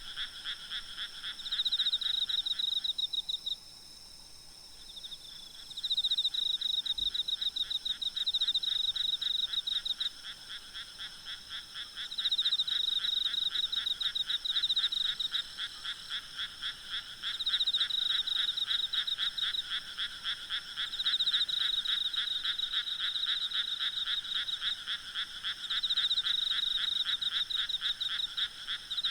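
Frogs calling in fast pulsed trills that come in bouts of a few seconds, dropping out briefly about three seconds in. Underneath, insects trill steadily at a high pitch.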